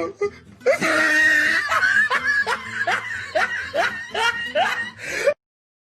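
A person laughing in a run of short rising bursts, about three a second, which cuts off suddenly near the end.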